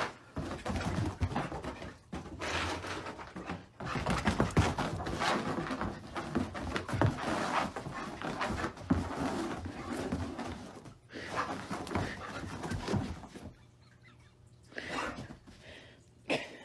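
A dog moving about, with scuffling and knocking noises, until it goes much quieter about thirteen seconds in.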